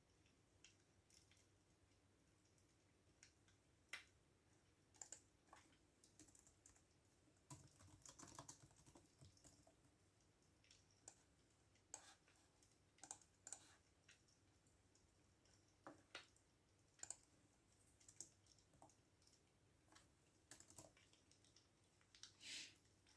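Faint computer keyboard typing: irregular keystrokes in short runs with pauses between them. There is one longer, hissier sound near the end.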